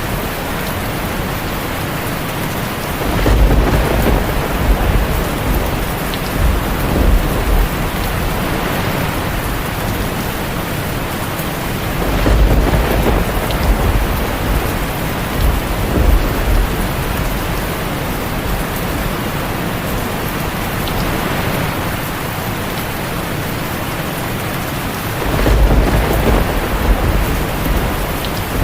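Heavy rain falling steadily on a tin roof, with thunder rumbling low three times: a few seconds in, around the middle, and again near the end.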